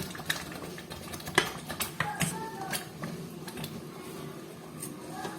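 Scattered sharp clicks and knocks of kitchen utensils against a cooking pot, several in the first three seconds and fewer after.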